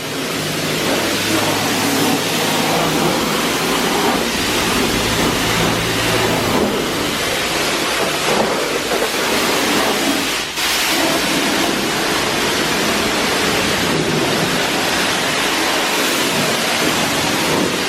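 High-pressure water from a self-serve car wash pressure-washer wand spraying onto a pickup truck: a steady, loud rush of spray that dips briefly about ten seconds in.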